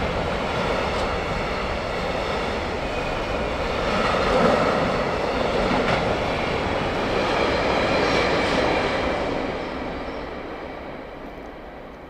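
Train running past on rails, a steady rumble of wheels and running gear that fades away over the last few seconds as it moves off.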